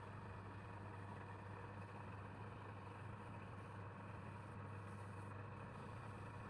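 A steady machine hum: a low drone with a few held higher tones, unchanging throughout.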